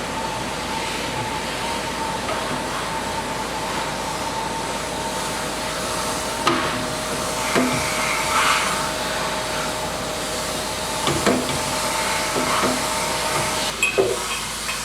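A steady machine hiss with a constant hum, which cuts off near the end. Scattered light knocks and clinks of metal motorcycle exhaust parts being handled and fitted sound over it.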